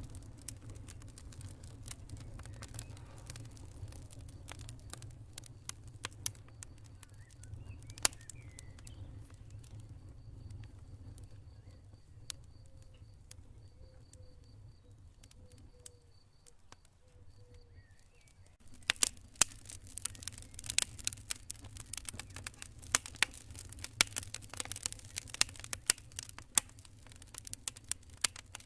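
Campfire crackling and popping, with sharp snaps over a steady low rumble; the crackling turns dense and loud about two-thirds of the way through. Faint cricket chirping pulses in the middle.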